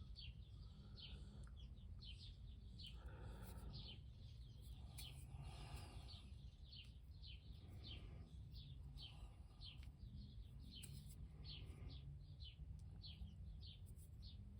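Near silence with a faint bird chirping over and over in the background, short falling chirps at about two a second, over a low steady hum.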